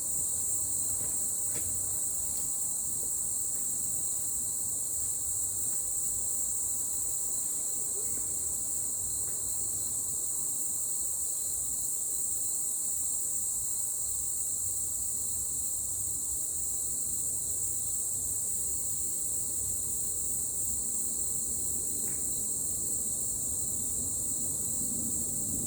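Steady, unbroken high-pitched chorus of insects in a forest, holding one even shrill tone without pause.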